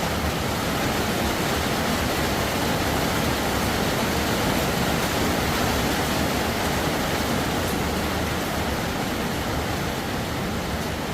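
Rain falling steadily: a dense, even hiss with no single drops or breaks standing out.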